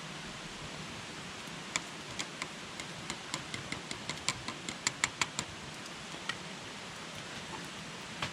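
Wood campfire crackling: a steady hiss with a quick run of sharp pops from about two to five and a half seconds in, then only an occasional pop.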